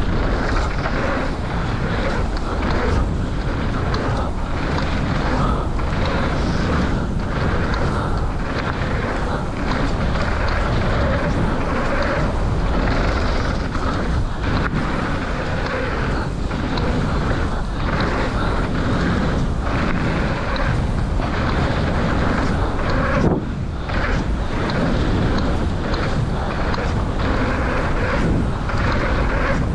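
Mountain bike riding down a dirt flow trail: wind buffeting the microphone and tyres rumbling over the ground, with frequent short clatters from the bike over bumps.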